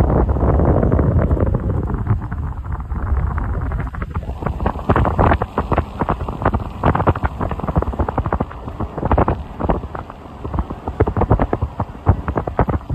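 Wind buffeting the microphone: a loud, steady low rumble with rapid crackling pops throughout.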